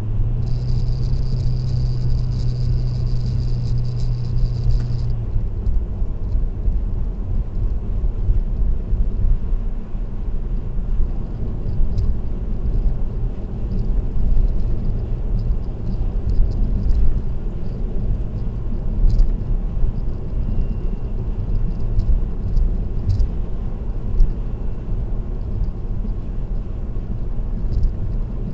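Car driving at expressway speed, heard from inside the cabin: a steady low rumble of tyre and engine noise. For the first five seconds a steady hum with a faint high whine rides over it, then stops, and light scattered ticks follow.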